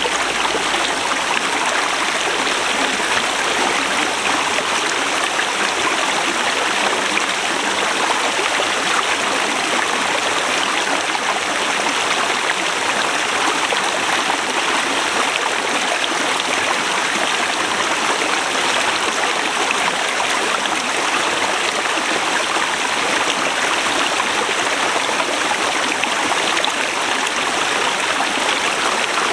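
Forest river rushing over rocks: a steady, even wash of flowing water with no change throughout.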